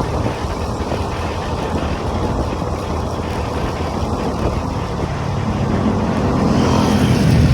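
Motorcycle riding noise from the rider's own bike: engine running with a rumbling haze of wind and road noise, getting louder from about five seconds in as the bike picks up.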